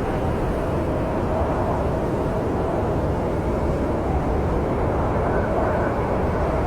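Snowstorm wind: a steady deep rush and rumble, with a faint wavering whistle above it.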